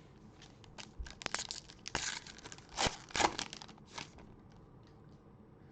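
Foil trading-card pack wrapper being torn open and crinkled by hand, a string of crackles and short rips, loudest around the middle.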